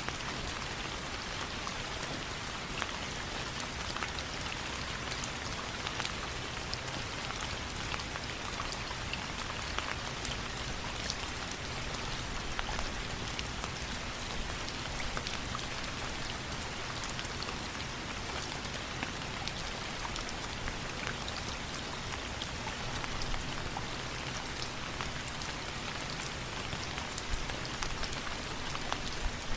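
Steady rain, an even hiss with many small sharp drop ticks scattered throughout.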